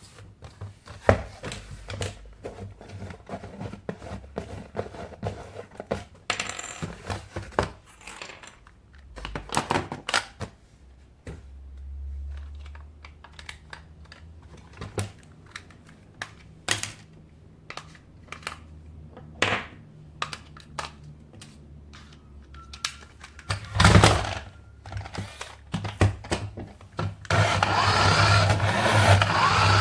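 Plastic toys and packaging being handled: scattered clicks, taps and knocks, with one louder knock just before three-quarters of the way through. Near the end a small electric toy motor starts whirring steadily.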